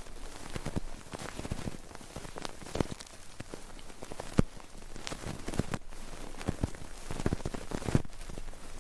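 Close-up ASMR ear cleaning and ear rubbing on a microphone: an irregular run of crackling, scratchy taps and rustles, with a sharper click about halfway through.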